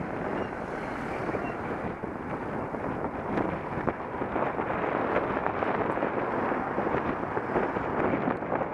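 Wind buffeting an action camera's microphone while cycling: a steady, fluctuating rushing noise.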